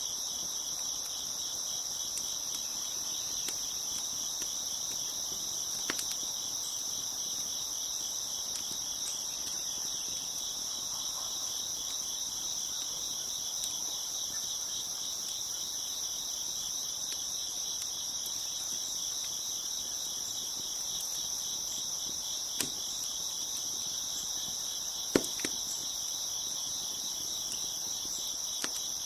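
Crickets chirping in a steady, dense chorus, with a few sharp pops of a crackling wood fire scattered through, the loudest near the end.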